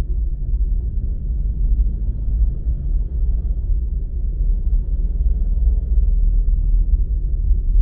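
Steady low rumble of a car moving along a road, engine and tyre noise heard from inside the car.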